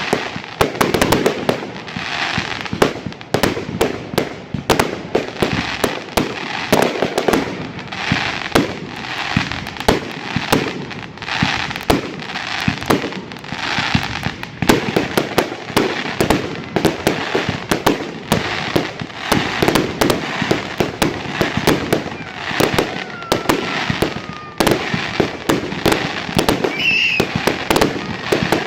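Fireworks going off without pause: a dense barrage of rapid bangs and crackling.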